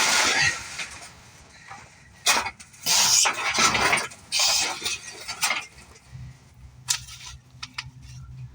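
Irregular metal clanks, knocks and scrapes as a heavy motorcycle is wrestled off its shipping crate base. A low steady hum starts about six seconds in.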